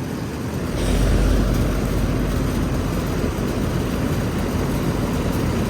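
Outdoor air conditioner condenser running, its fan drawing air with the rustle of leaves caught on the unit. The sound gets louder about a second in and then holds steady.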